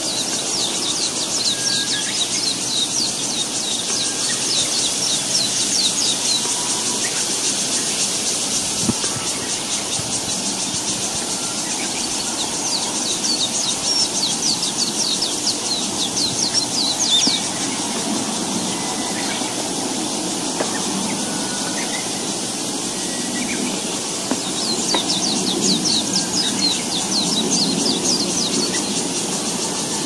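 Songbird nestlings begging at the nest: rapid, high-pitched, falling chirps in three runs of several seconds each, over a steady background hiss.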